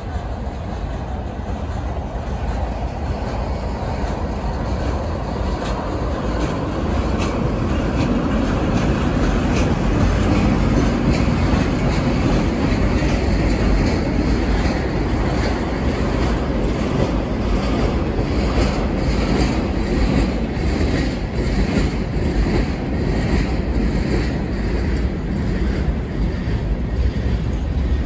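Freight train of covered hoppers and tank cars rolling past close by: a steady rumble of steel wheels on the rails that grows a little louder over the first few seconds. Through the second half it carries a regular clicking as the wheels pass over rail joints.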